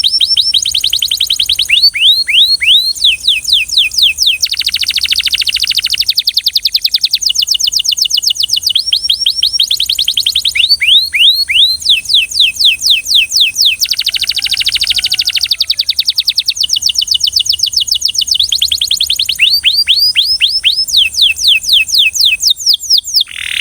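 Belgian canary singing in phrases of rapidly repeated notes, each sweeping down in pitch, alternating with very fast rolling trills. The song breaks off abruptly near the end.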